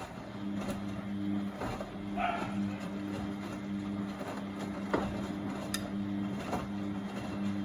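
Beko WMB71642W washing machine running while it heats the water: a steady motor hum with scattered clunks and knocks as the drum turns the wet load.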